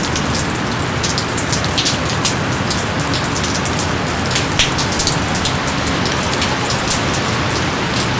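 Steady heavy rain falling on surfaces, with many close, sharp drop impacts scattered through the constant hiss.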